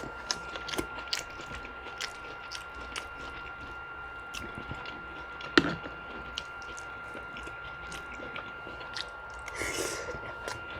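Close-miked chewing and wet mouth clicks of a person eating a meal of curry chicken, potato and rice, with one louder smack about five and a half seconds in.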